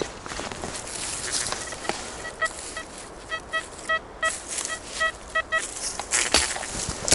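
Metal detector giving a string of short, same-pitched beeps, about a dozen over three and a half seconds, as the coil passes over a buried metal target. Leaf litter crunches and rustles underfoot before and after the beeps.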